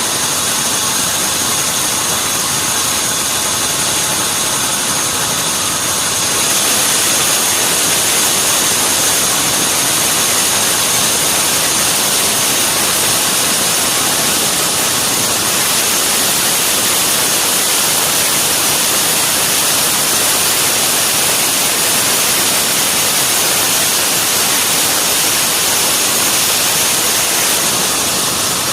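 Sawmill machinery running: a loud, steady mechanical noise with a high whine, growing slightly louder about six seconds in.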